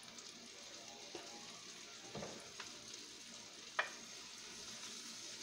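Chopped onions and curry powder sizzling gently in hot oil in a wok, stirred with a wooden spatula. One sharp knock about two-thirds of the way in.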